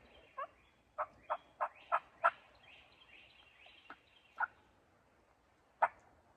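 Turkey yelping: a run of about six short, sharp notes in the first two seconds or so, then two more single notes later on. Small birds chirp faintly in the background.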